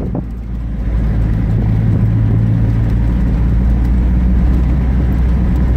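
A motor vehicle running, a steady low rumble that grows louder about a second in and holds.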